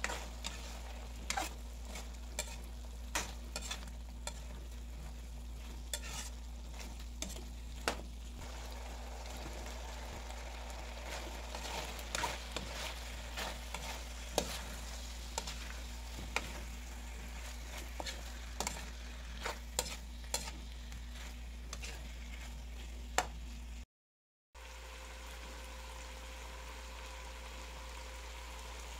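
Pork, potatoes and carrots frying in butter in a wok, sizzling, with the stirring spoon scraping and ticking against the pan many times. Near the end, after a brief cut to silence, the sizzle carries on steadily without stirring.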